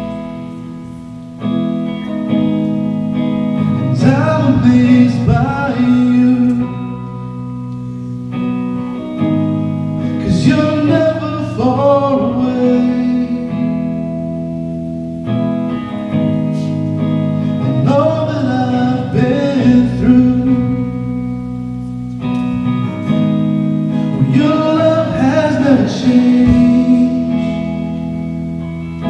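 Live worship band music: guitar over sustained chords, with a melody line that swells in phrases about every six to eight seconds.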